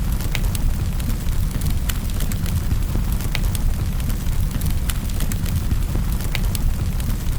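Wood fire burning in a fireplace: a steady low rumble of flames with irregular sharp crackles and pops of burning wood scattered throughout.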